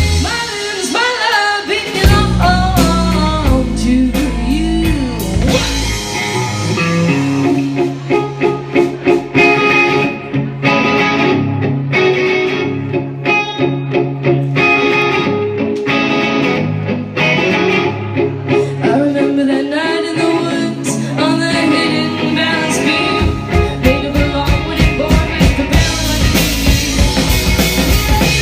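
Live rock band playing: electric guitar, bass and drums, with a woman singing in the opening seconds. The deep bass drops out about six seconds in, leaving guitar and drums, and comes back in near the end.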